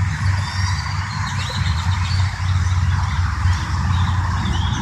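Birds chirping and calling repeatedly over a steady low rumble.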